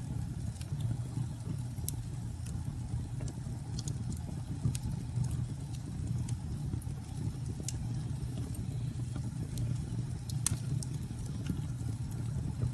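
Wood fire crackling, with scattered sharp pops, over a steady low rumble of storm wind.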